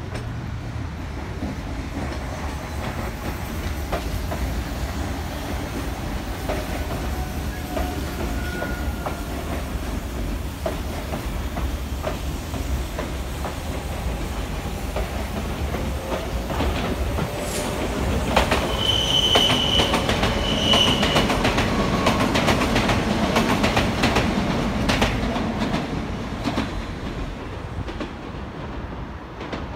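Kintetsu electric trains running on elevated tracks: a steady rumble that swells as a train passes close past the middle, its wheels clattering over rail joints, with two short high-pitched wheel squeals.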